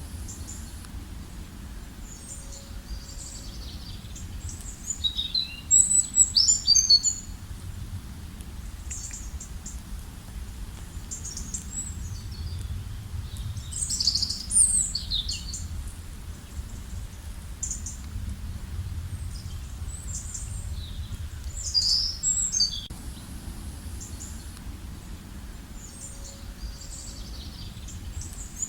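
A songbird singing a loud, quick, high-pitched phrase about every seven or eight seconds, with fainter chirps between, over a steady low background rumble.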